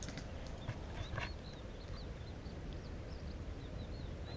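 Small birds chirping in many short, high notes, over a steady low rumble.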